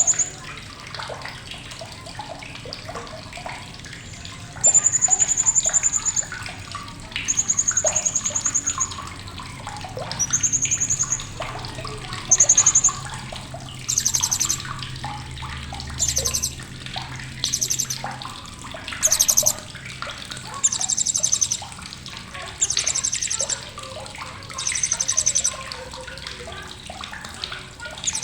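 Blue-crowned hanging parrot (serindit) calling again and again in sharp, high bouts of about a second each, roughly every two seconds. The first few are thin steady high notes; from about halfway they become rapid pulsed trills, over a steady background hiss.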